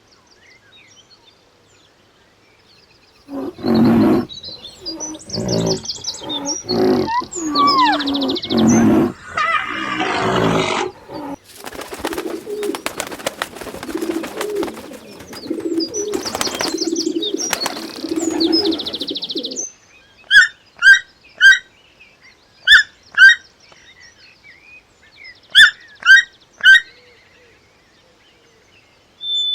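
Bird calls: low repeated cooing typical of pigeons or doves, several birds at once at first, over a steady hiss. Near the end come about eight short, sharp higher calls, mostly in pairs.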